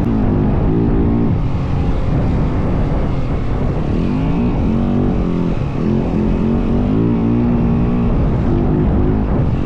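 Yamaha WR450F dirt bike's single-cylinder four-stroke engine running under way, its revs rising and falling several times over a heavy low rumble.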